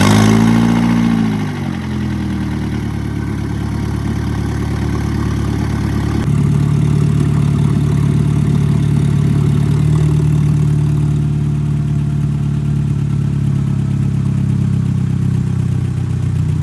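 MK4 Volkswagen Golf 2.0 four-cylinder engine catching on start-up, its revs flaring up and dropping back, then settling into a steady idle that gets a little louder about six seconds in. The engine has just been refilled with oil after running almost empty.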